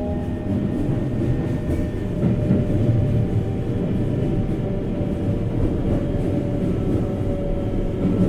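Running noise inside the lead car of a Keikyu 1500-series (1700-subseries) electric train: a steady rumble of wheels on rail, with faint steady tones above it and the air conditioning running.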